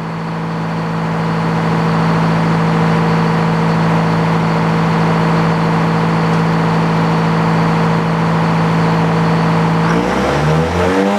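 Engine powering an old Frick sawmill running steadily, then speeding up about ten seconds in with a rising pitch.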